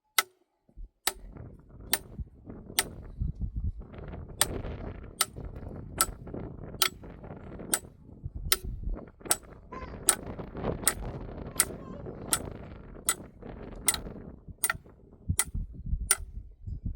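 Sharp knocks repeating at an even pace, a little over one a second, over a low rumbling, rustling noise that starts about a second in.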